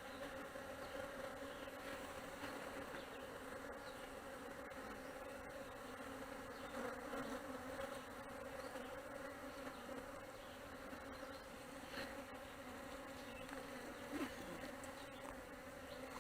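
Honeybees buzzing steadily around an opened hive: a constant low hum with a clear overtone, with a couple of soft knocks near the end.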